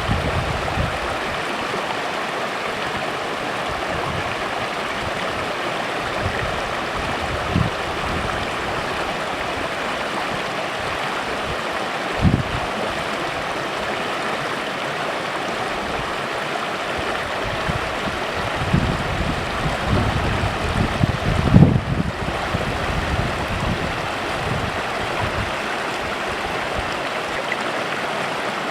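A small creek babbling steadily over stones. A few short, low bumps break through, around twelve seconds in and in a cluster near twenty seconds in.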